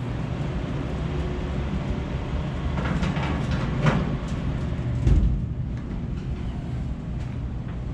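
Steady low hum and rumble of a running furnace, with a few clunks about three to four seconds in and a heavier thump about five seconds in.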